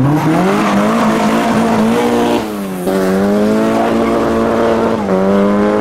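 A car engine revved hard, climbing to a high pitch in the first moment and held there, dipping briefly twice, with tyres squealing under the power.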